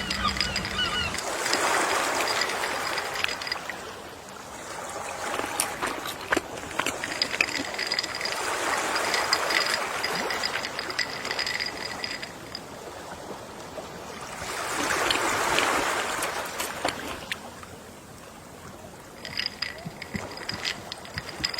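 Gentle ocean waves washing onto a beach, swelling and ebbing three times, with a faint high steady tone that comes and goes in the background.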